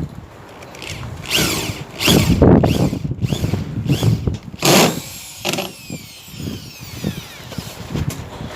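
Power drill run in several short bursts, each whining up to speed and winding down, the last one slowing gradually.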